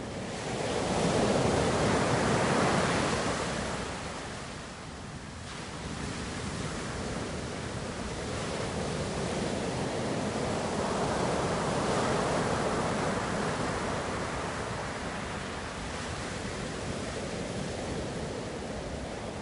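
Ocean surf: one wave surges up about a second in and fades by about four seconds, then a longer, gentler wash swells through the middle.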